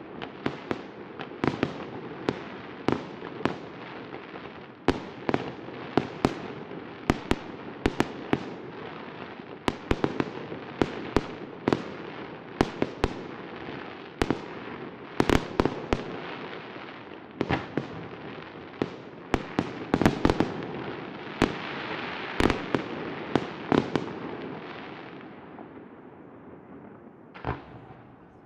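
Fireworks display: a long run of sharp bangs, several a second at times, over a continuous wash of crackle and rumble. The bangs thin out and the noise fades away over the last few seconds, with one last bang just before the end.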